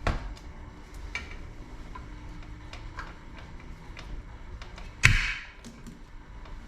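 Metal parts and tools being handled on a workbench: scattered light clicks and knocks, a sharper knock at the start and a louder ringing metallic clank about five seconds in.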